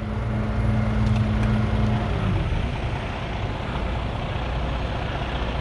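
Heavy truck diesel engine running steadily. Its note drops in pitch about two seconds in, as if coming off throttle.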